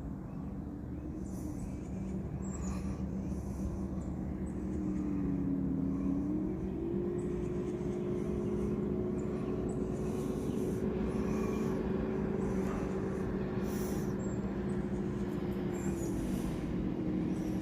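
Bass boat outboard motor running steadily, its pitch rising about six seconds in and dropping again near the end.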